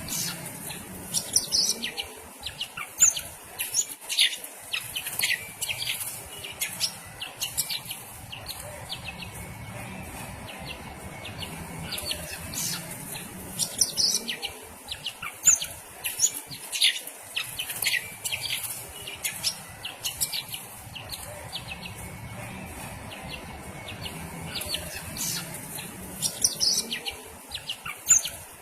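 Green leafbird (cucak ijo) song: rapid, sharp chirps and twittering trills in dense phrases. The phrases come back about every 12 seconds, with quieter gaps between them. The bird is described as agitated.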